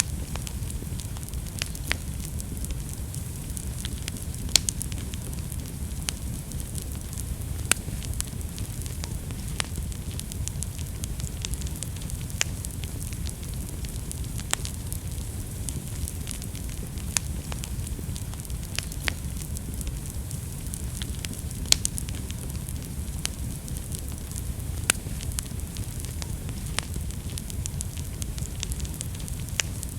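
Wood fire burning in a fireplace: a steady low rumble with irregular sharp crackles and pops scattered throughout, a few louder pops standing out.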